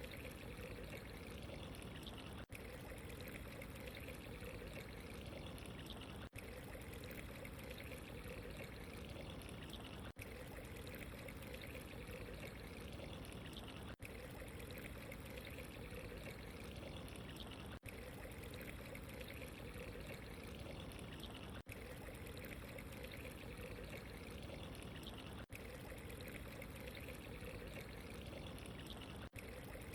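Steady running, trickling water, faint and unchanging, with a tiny break about every four seconds as the loop repeats.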